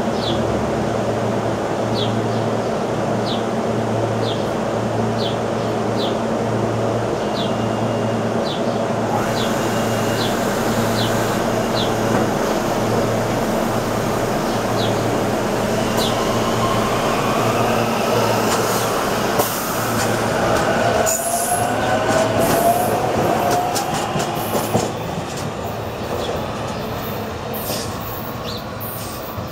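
SEPTA Silverliner V electric multiple-unit train pulling out of the station. A steady electrical hum with a row of short high chirps comes first. About halfway through a rising traction-motor whine and a run of wheel clicks over the rail joints come in as it gathers speed, then the sound fades as the train moves away.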